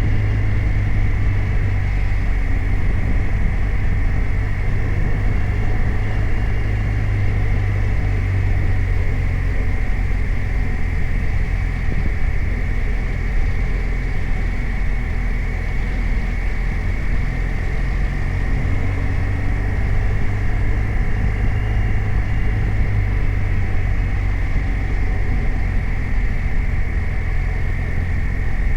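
BMW R 1250 RT's boxer twin engine running steadily under way, a deep even rumble with no sharp revving.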